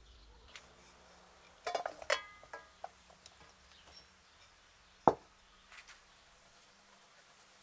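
A cluster of clicks and clinks, some ringing briefly, about two seconds in, then a single sharp knock about five seconds in, like hard objects being handled and set down in a small room.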